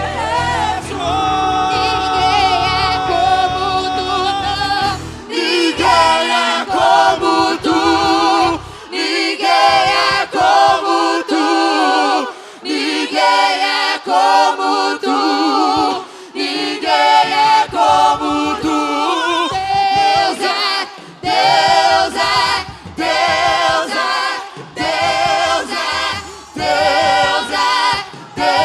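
A church choir singing a worship song in Portuguese, in short, held phrases. A low bass accompaniment under the voices drops out about five seconds in, leaving the voices almost unaccompanied.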